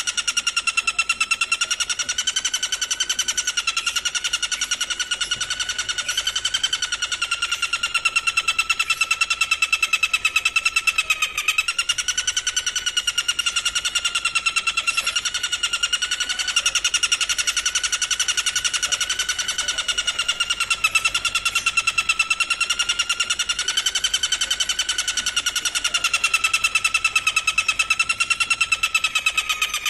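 A singing insect, cricket or grasshopper, giving a continuous, very fast-pulsed buzzing trill that wavers slightly in pitch.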